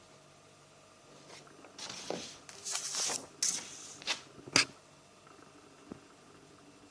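Paper pages of a bullet journal being turned, rustling and flapping for about three seconds mid-way and ending in a sharp flap of a page.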